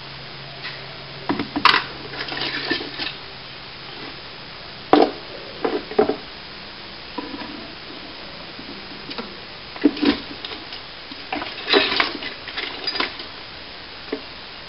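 Hard objects being handled, clinking and knocking in short irregular clusters, with a faint steady hum that stops about five seconds in.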